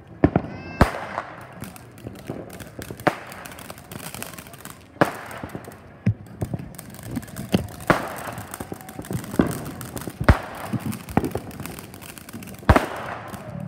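Fireworks going off: a string of sharp bangs every second or two, with crackling between them and a brief whistle near the start.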